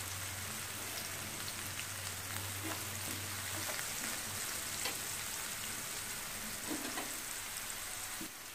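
Onions frying in hot oil in a pan, a steady sizzle with occasional small clicks, as turmeric powder is stirred in. A low hum runs under it for the first few seconds, then stops.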